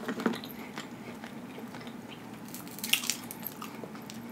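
A person chewing a mouthful of rotisserie chicken with lips closed: soft wet mouth sounds with small clicks, a couple near the start and a cluster about three seconds in.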